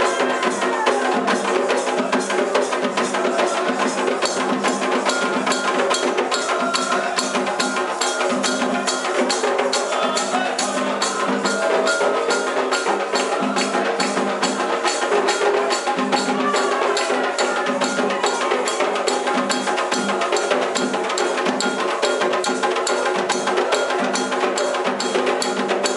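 Candomblé ritual music: hand drums and a sharp clacking percussion keep a fast, steady beat, with voices singing over it.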